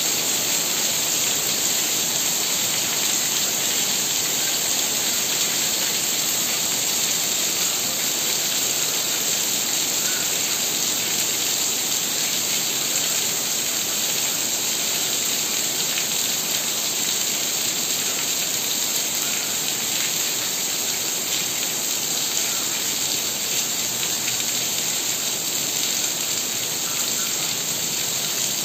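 Heavy rain falling steadily on trees and roofs, an even, unbroken hiss.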